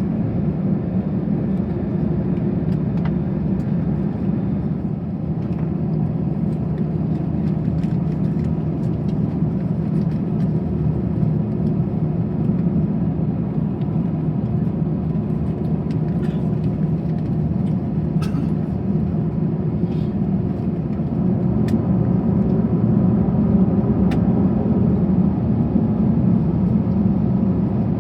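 Steady cabin noise of an Airbus A321 on the ground before takeoff: a low rumble and hum from the engines at idle and the cabin air, with a few faint ticks. The rumble grows a little louder about three-quarters of the way through.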